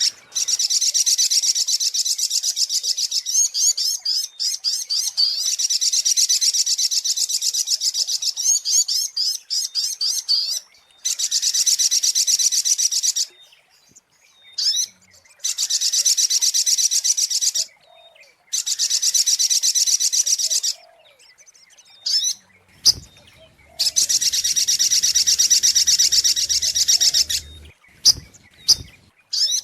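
Sogok ontong (spiderhunter) lure-call recording: long, rapid, high-pitched trilled phrases several seconds each, broken by short pauses and single sharp calls.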